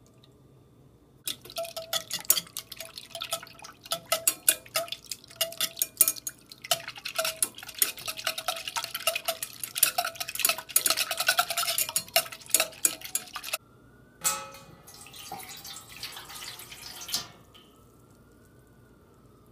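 A wire whisk beating custard mixture in a metal pot, its wires clicking rapidly and unevenly against the pot for about twelve seconds. Then a knock, and water poured from a measuring cup into a baking pan for about three seconds.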